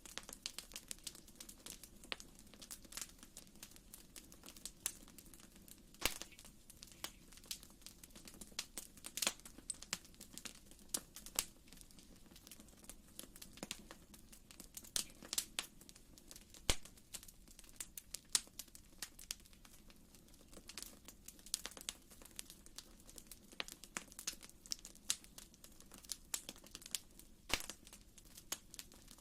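Wood fire in a fireplace crackling: irregular snaps and pops, some louder than others, over a faint steady low background.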